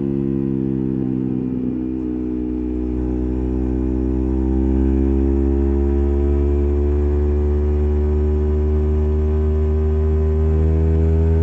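Yamaha MT15's 155 cc single-cylinder engine through an SC Project full-system exhaust with silencer, holding a steady note under way, its pitch dipping slightly about two seconds in and then climbing gradually as the bike gently accelerates in one gear.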